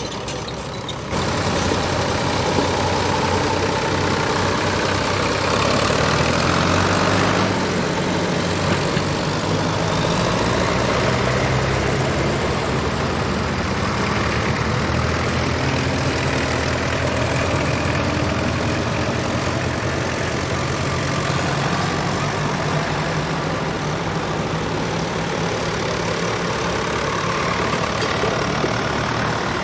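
Tractor engines running steadily, with the overlapping hum of more than one engine; the sound jumps louder about a second in.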